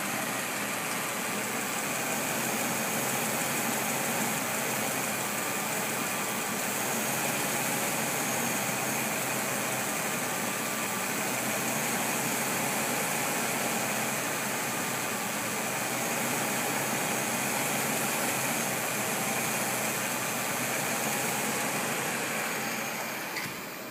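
Mercedes-Benz M116 V8 of a 1990 420SEL idling steadily at operating temperature, heard close up under the open hood.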